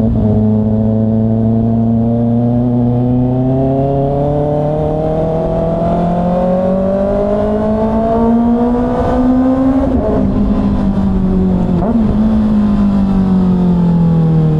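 Kawasaki ZX-6R's inline-four engine pulling steadily, its note rising slowly for about ten seconds as the bike gathers speed. It then jogs briefly and falls away as the bike slows, over wind and road noise.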